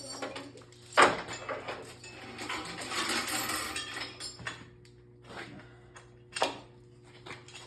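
A sharp knock about a second in, then a couple of seconds of clattering and rattling and a few lighter knocks, over a steady low hum.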